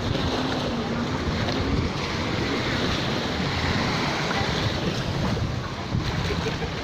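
Sea surf washing onto the beach, with wind buffeting the microphone. A faint low hum sounds under it for the first couple of seconds.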